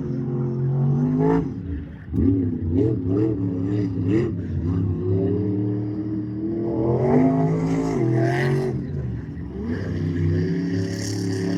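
Monster truck engine revving hard, its pitch rising and falling again and again, with a short drop about two seconds in.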